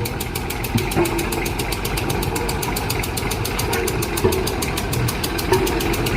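Heavy engine idling with an even, rapid chugging of about eight beats a second.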